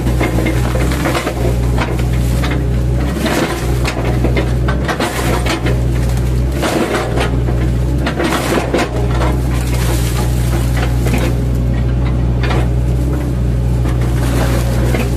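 Mini excavator's diesel engine running steadily, with irregular cracking and crunching as the bucket chops up a felled oil palm trunk.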